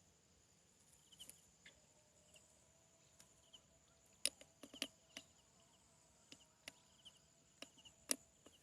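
Near silence with faint insects: a thin steady high drone and small chirps repeating every second or so. A few sharp clicks or taps come about four to five seconds in and again near the end.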